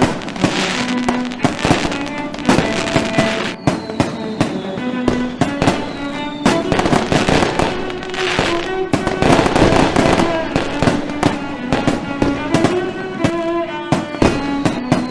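Fireworks going off in a rapid string of bangs and crackles, over music playing at the same time.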